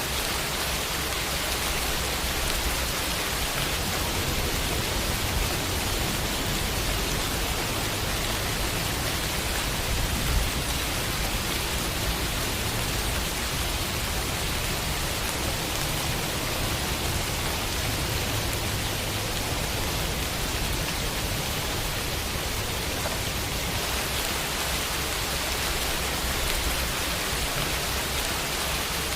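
Steady rainfall on a window, an even hiss of drops with no thunder or other events.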